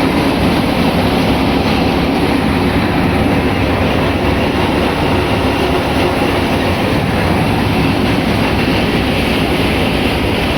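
Model 480 tractor running steadily under load, driving a thresher: a loud, unbroken machine din of engine and thresher clatter.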